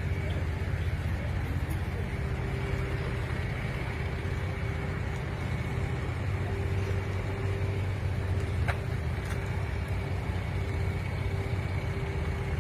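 An engine running steadily: a low drone with a faint steady whine above it, and one brief click about two-thirds of the way through.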